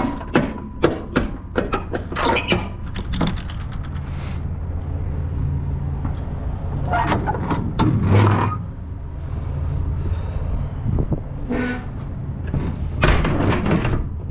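Semi-truck engine idling with a steady low hum, under a series of clicks, clunks and knocks: a quick run of them in the first few seconds, more at about seven to eight seconds, and again near the end.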